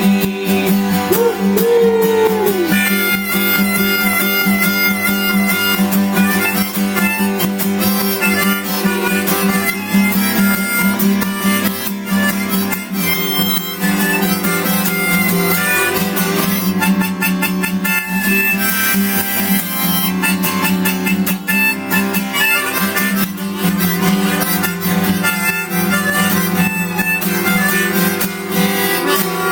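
Instrumental passage of a live folk song: harmonica playing the melody over acoustic guitar.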